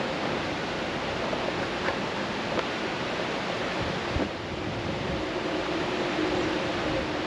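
Steady rushing of a waterfall, an even wash of falling water, with a faint steady hum underneath.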